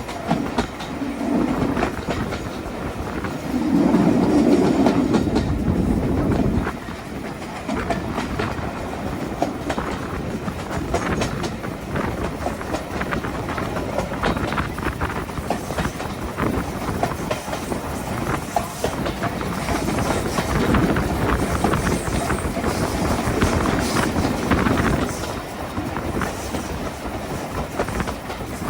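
Steam-hauled train running along the line, heard from on board: a steady rumble with wheels clattering over the rail joints. It is louder for a couple of seconds about four seconds in.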